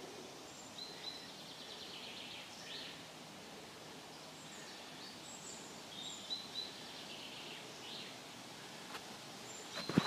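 Faint woodland birdsong: scattered short, high chirps and brief phrases over a quiet, even background hiss.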